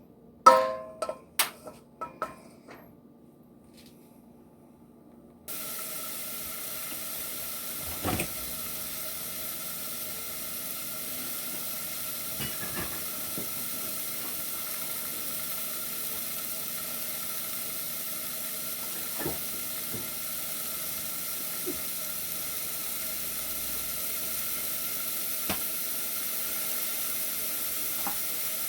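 Onions and celery sizzling in oil in a saucepan, a steady hiss that starts suddenly about five seconds in. Before it come a few clinks of pan and utensil, and a few light knocks come through the sizzle later.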